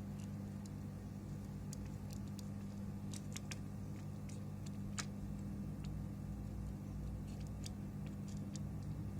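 Scattered small clicks and taps of metal tools handling components on a circuit board, over a steady low electrical hum.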